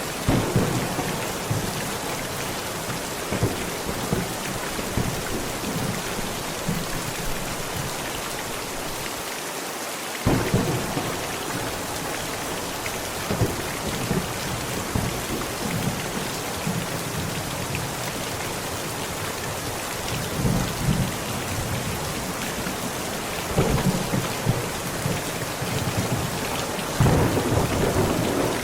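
Heavy rain pounding steadily on a tent, with thunder rumbling several times, strongest near the start and near the end.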